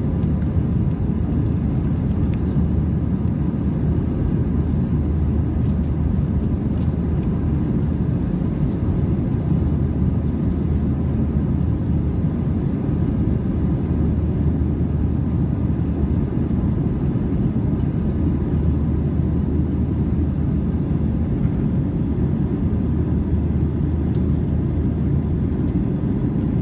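Steady airliner cabin noise in flight: the even, deep rumble of the jet engines and airflow, with a faint constant hum.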